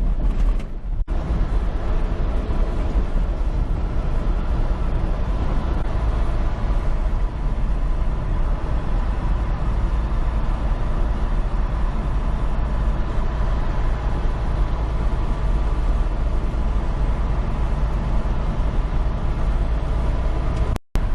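Steady in-cab driving noise of a semi-truck at highway speed: engine and road rumble with a faint steady whine. The sound cuts out for an instant just before the end.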